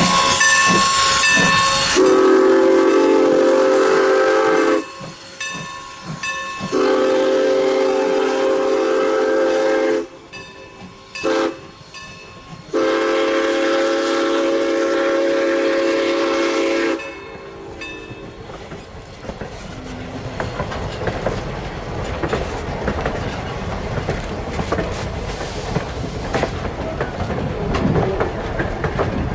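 Steam locomotive blowing off steam with a loud hiss, then sounding its chime whistle in the long-long-short-long grade crossing signal. It then passes with a rumble and the clickety-clack of wheels over rail joints.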